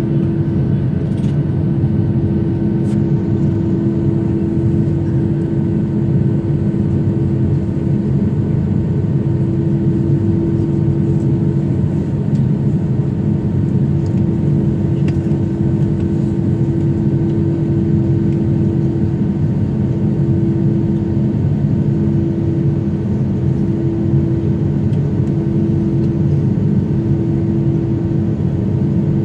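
Steady jet-airliner cabin drone: engine and airflow noise with a constant hum, running evenly throughout.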